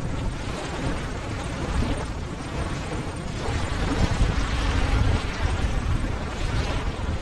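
Ocean waves: a steady rush of surf with a deep rumble, swelling louder about four seconds in.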